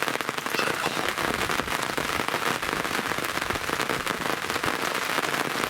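Steady rain falling on a close hard surface, a dense, even ticking of many drops.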